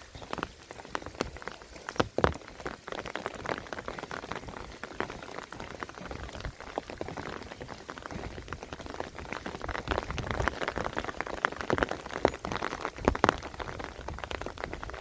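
Rain falling: dense, irregular drop hits over a steady patter, with a few louder drops.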